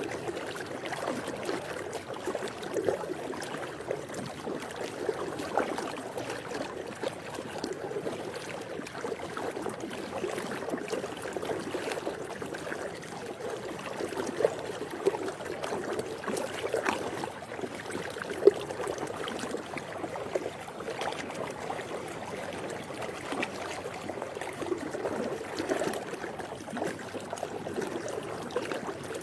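Swimming pool water: a steady wash of moving, trickling water with small splashes and drips scattered throughout, one a little louder about two-thirds of the way in.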